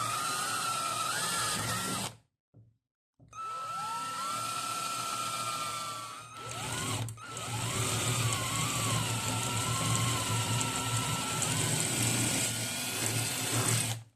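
Small electric power tool running in two spells, its motor whine stopping about two seconds in and restarting a second later. Its pitch sags and wavers as the tool is loaded against the work.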